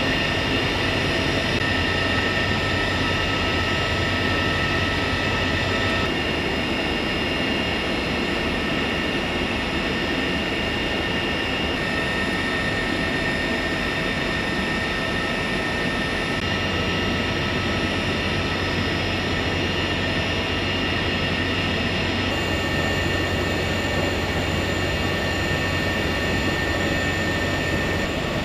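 CH-53E Super Stallion helicopter's three turboshaft engines and rotors running steadily, a dense rushing noise with high turbine whine tones over a low hum; the tone mix shifts abruptly several times.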